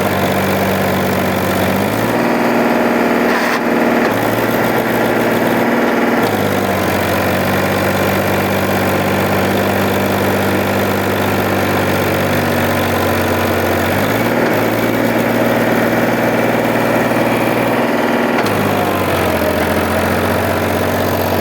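Tractor engine running loud and steady, its speed stepping up and back down several times as it is throttled or loaded.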